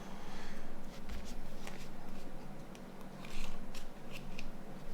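Light, irregular clicks and scrapes of small plastic parts being handled while a memory card is fitted into a Nokia 9210 communicator.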